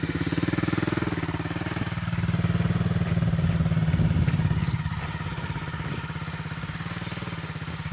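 Small child's motocross bike engine running at a low, steady speed, a little louder in the first half and easing off toward the end.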